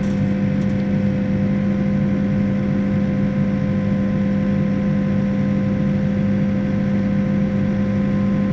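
Backhoe's diesel engine running at steady revs, a constant hum with a steady whine over it.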